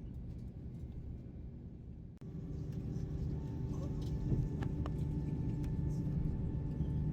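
Airbus A321 cabin noise: a steady low engine rumble with faint whining tones. About two seconds in it cuts off abruptly and comes back louder, with a clearer steady whine and slowly rising loudness.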